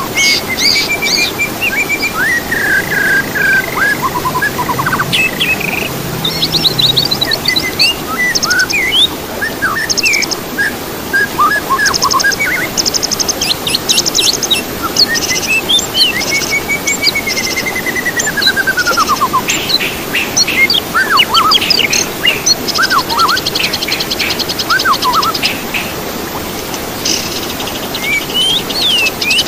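Songbirds singing continuously in a mix of clear whistles, fast trills and rapid chirps, with one long arching whistle about halfway through, over a steady low hiss.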